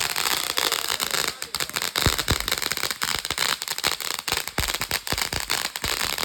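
Consumer fireworks going off: dense continuous crackling and hiss with a string of sharper pops and bangs scattered through it.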